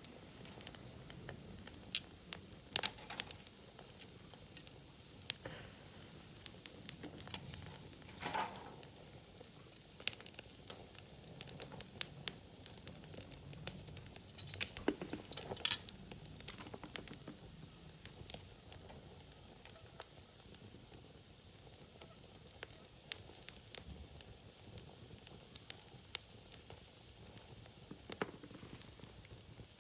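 Wood fire crackling, with sharp irregular pops and snaps over a low hiss.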